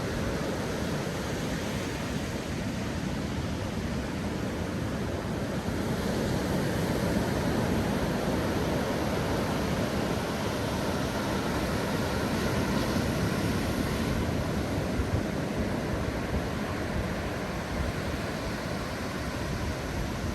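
Steady rushing of sea surf and wind.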